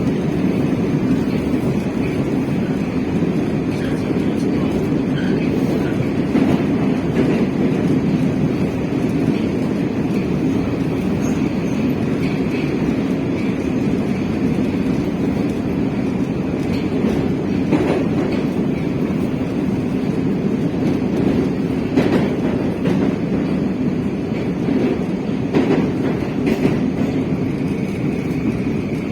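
Metro train running at speed between stations, heard from inside the carriage: a steady rumble of wheels on the rails with a higher hum above it, and occasional knocks of the wheels over rail joints.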